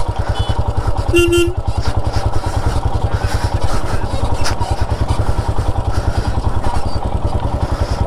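Royal Enfield Himalayan's single-cylinder engine running at low revs with an even, low pulsing beat as the motorcycle creeps along a rough dirt trail.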